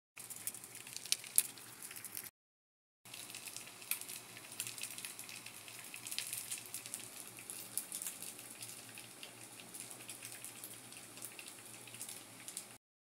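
Stuffed beef intestines (mumbar) frying in hot oil: a steady crackling sizzle with frequent small pops. It drops out briefly about two seconds in.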